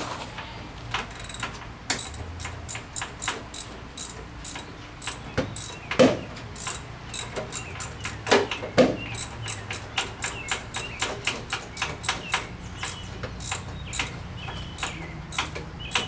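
Ratchet wrench clicking in short, irregular strokes, about one or two clicks a second. Two heavier knocks come about six and eight and a half seconds in.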